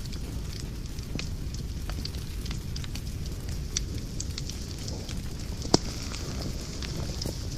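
Fire burning in a fireplace, crackling: a steady low rumble of flames with a hiss above it, and frequent small sharp pops. One much louder pop comes a little over halfway through.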